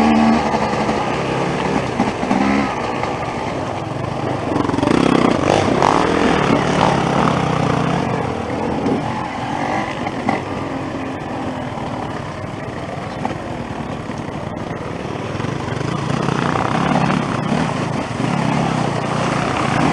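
Off-road motorcycle engine heard from on board, revving up and down continuously as the bike rides a rough trail, under a steady rush of wind and noise.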